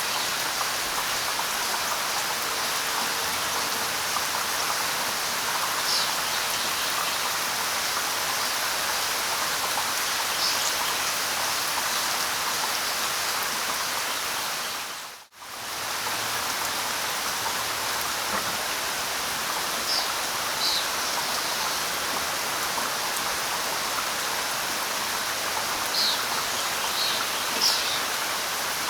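Steady light rain falling, with a few short, high bird chirps here and there. About halfway the sound fades out for a moment and comes straight back in.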